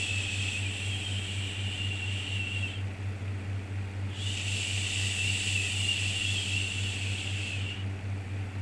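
Long drawn-out 'shhh' shushing, held for about three and a half seconds, then a pause of a second and a half before it starts again. A steady low hum runs underneath.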